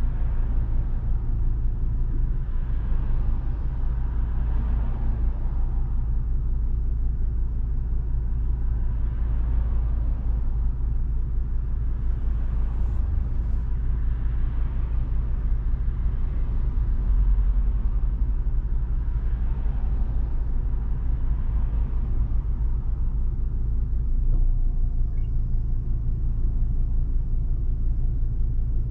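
Volvo V70 2.5T turbocharged five-cylinder car under way, heard from inside the cabin. A steady deep engine and road drone is mixed with tyre and rain noise that swells and fades every few seconds.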